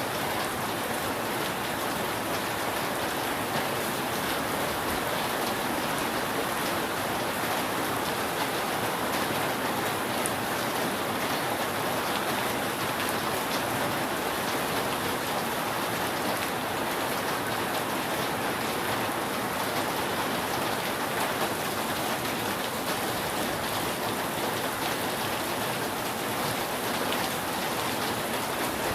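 Steady rain falling on a roof: an even hiss with scattered drop ticks, no change in strength.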